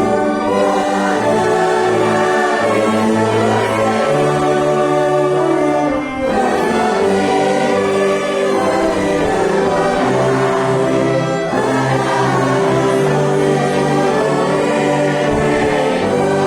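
A hymn sung by a large congregation or choir, with a church orchestra playing along in long held chords. The music breaks briefly between phrases about six and eleven seconds in.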